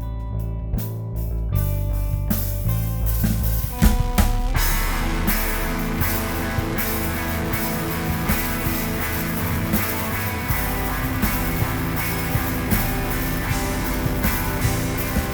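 Instrumental rock band demo: guitar and bass over light drums, until about four seconds in the full drum kit crashes in and the band plays on, dense and loud.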